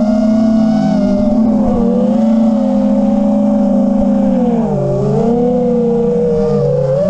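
5-inch FPV quadcopter's brushless motors and tri-blade propellers whining steadily, the pitch dipping twice as the throttle is eased off and brought back up, about two-thirds of the way in and again near the end.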